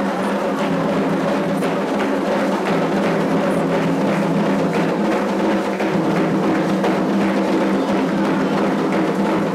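Candomblé ritual drumming on atabaque hand drums, with sharp wooden or bell-like strikes keeping a steady, continuous rhythm for the call of Iansã.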